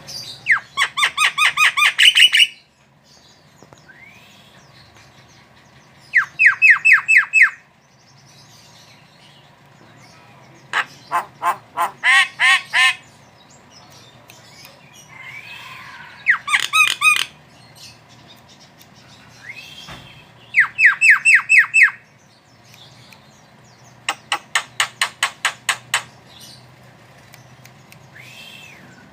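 Javan myna (jalak kebo) calling in full voice: repeated bouts of rapid, evenly spaced notes, each bout lasting one to two seconds and coming every few seconds, with soft rising-and-falling whistles between bouts.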